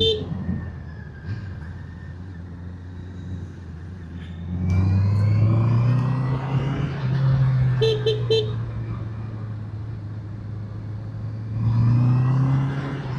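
Motorcycle engine running on the move, picking up speed about five seconds in and again near the end. A horn gives a short beep at the start and three quick beeps about eight seconds in.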